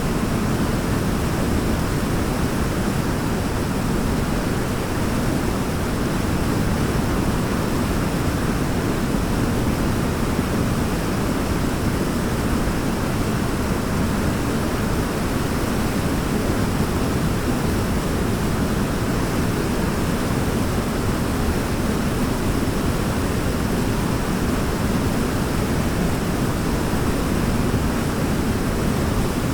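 Steady rushing of a waterfall: an even, unchanging roar of falling water, heaviest in the low range.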